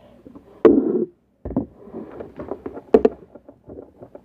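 Handling noises close to the microphone: a loud thump under a second in, then rustling and small clicks, and a sharp knock about three seconds in.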